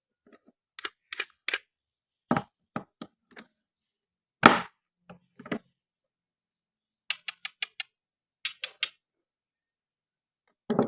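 Sharp clicks and knocks of toy play food being cut and handled: a toy knife and toy fruit pieces clacking on a cutting board. The clicks come in short clusters of two to five, with silence between them and one louder knock about halfway through.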